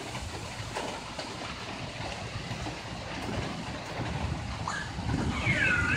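Steady hiss of a heavy thunderstorm downpour mixed with hail, with scattered faint ticks of hailstones striking. Near the end the rain gets louder and a short, high, sweeping call is heard.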